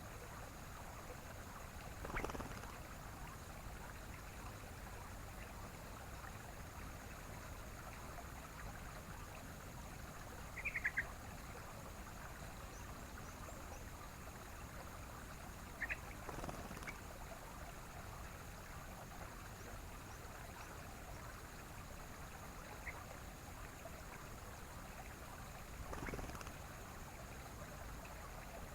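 Steady rushing of a stream with a few brief calls of a sooty-headed bulbul (trucukan) breaking through at intervals of several seconds, one of them a quick run of chirps.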